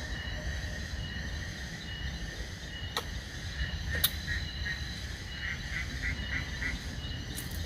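Forest ambience: faint steady insect tones over a low rumble, with a short run of about six quick animal chirps in the second half and two sharp clicks around three and four seconds in.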